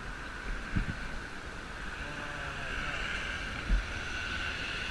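Steady riding noise from a motorcycle in motion: wind and engine hum with no break, and two short low thumps, about a second in and again near the end.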